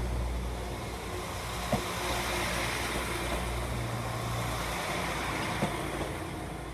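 Train at a station platform with its engine running: a steady low hum under a wash of noise, with a few sharp clicks or knocks.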